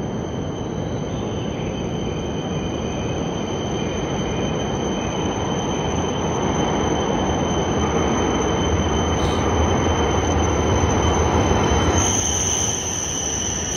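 A JR East E5 series Shinkansen train pulling into an underground station platform. Its rumble grows steadily louder as it approaches. About twelve seconds in, as the front car passes, a high steady tone grows much louder along with a high hiss.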